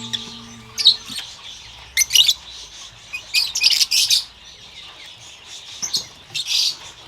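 A flock of birds chirping and squawking in short, shrill bursts, many calls overlapping. A music bed fades out about a second in.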